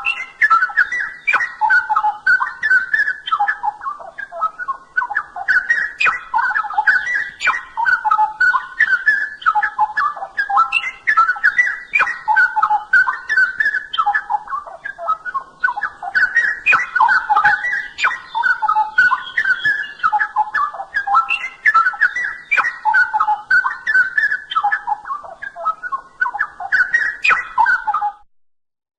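Straw-headed bulbul (cucak rowo) singing: loud, rapid warbling phrases one after another, with a brief break near the end.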